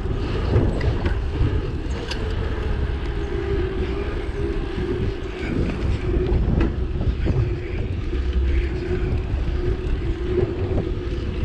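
Steady wind rumble on the microphone and rolling tyre noise from a bicycle being ridden along a paved path, with a steady hum throughout.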